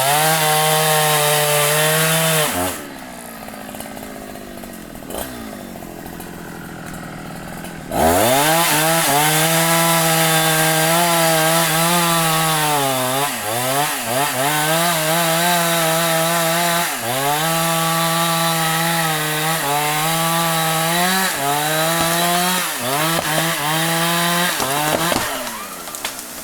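Large Husqvarna two-stroke chainsaw running at full throttle, dropping back to idle for a few seconds, then revving up again and cutting into the wood, its pitch dipping briefly again and again as the chain bites under load.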